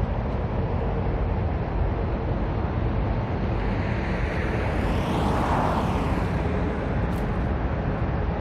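Outdoor traffic noise with a steady low rumble, likely wind on the microphone. A vehicle swells past about five seconds in and fades again.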